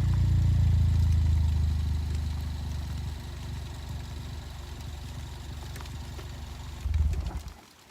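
Suzuki Swift Sport ZC33S exhaust with a Monster Sport Sp-X street muffler: the 1.4-litre turbo four-cylinder settling to a steady low idle, growing quieter from about two seconds in. There is a brief louder swell near the seventh second before the sound cuts off.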